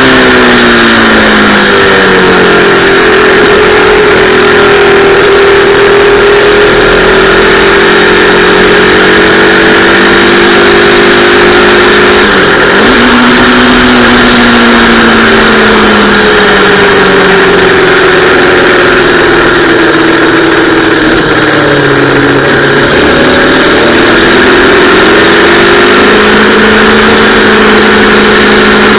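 Yamaha R3 321 cc parallel-twin engine running hard on track, its pitch falling early on, dropping and jumping back sharply about halfway through, and sagging and rising again near the end as the rider works the throttle and gears. A steady rush of wind noise runs under it.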